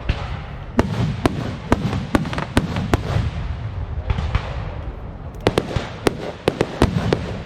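Aerial fireworks display: shells bursting one after another in sharp bangs over a continuous low rumble, with a quick run of cracks and crackles near the end.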